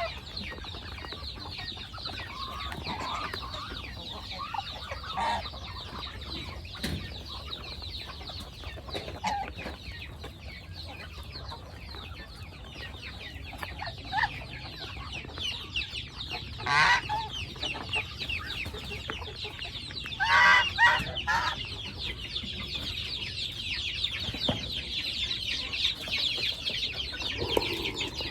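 Chickens clucking and calling over a steady high chirping, with louder calls about seventeen seconds in and again a few seconds later.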